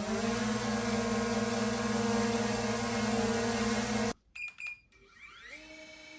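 DJI drone's motors and propellers running with a steady, high buzzing whine just after spinning up for takeoff. The sound cuts off suddenly about four seconds in; after two short blips, a quieter whine rises and settles near the end.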